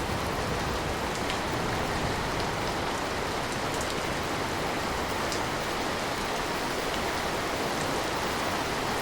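Steady rain, a constant hiss of falling water with a few sharper drips standing out here and there.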